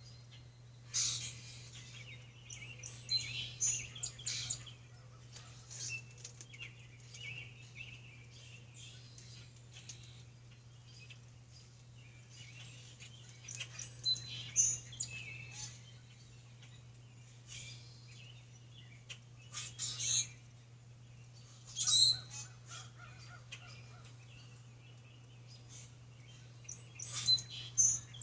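Small birds chirping outside in short bursts of high calls every few seconds, over a steady low hum.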